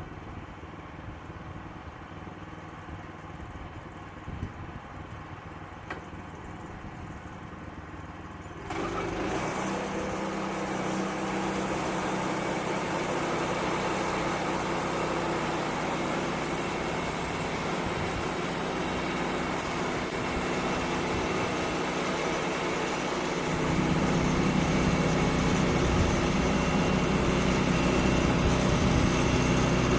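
Sawmill engine idling, then throttled up about nine seconds in, with a high steady whine from the running saw blade. The sound keeps getting louder, and a deeper hum joins about two-thirds of the way through.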